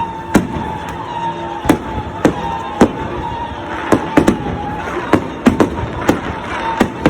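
Fireworks going off in a rapid, irregular string of sharp bangs, about a dozen in seven seconds, some louder and closer than others. A steady high tone runs underneath.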